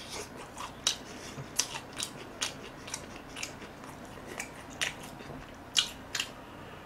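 Close-miked biting and chewing of a deep-fried breaded shrimp cutlet (shrimp katsu): about a dozen crisp crunches at an irregular pace as the fried coating breaks.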